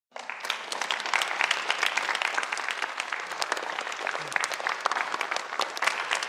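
A large audience applauding. The clapping breaks out suddenly and continues steadily as a dense patter of many hands.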